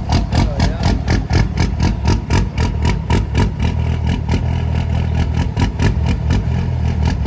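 A vehicle engine running, with a steady low rumble and a regular clatter of about five knocks a second.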